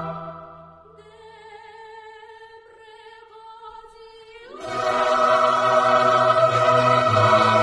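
Choral music in an operatic style. A loud choir fades away at the start, a single quieter note with vibrato is held, and then the full choir swells back in loudly about four and a half seconds in.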